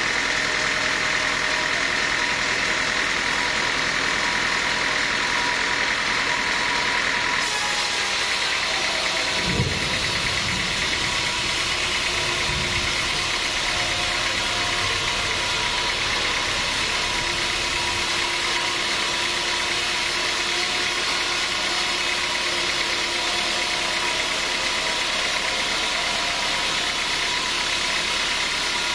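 An engine running steadily, with a few low heavy thuds about ten seconds in.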